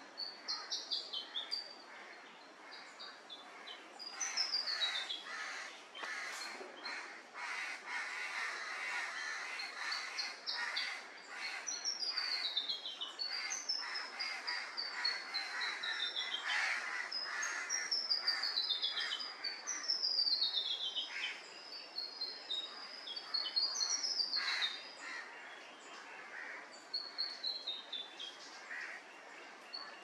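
Wild birds calling: a quick run of high notes stepping down in pitch, repeated about eight times, over harsher, rasping calls.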